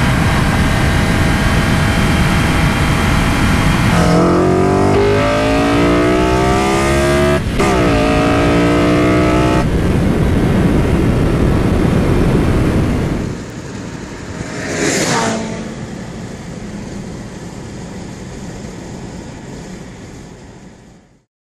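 Honda S2000's four-cylinder VTEC engine with Invidia Q300 exhaust under hard acceleration, heard inside the car: the revs climb, dip for a quick upshift about seven and a half seconds in, then climb again. Later the throttle closes and the engine drops to a quieter cruise under wind and road noise, with a short rushing sweep a couple of seconds after, before the sound fades out.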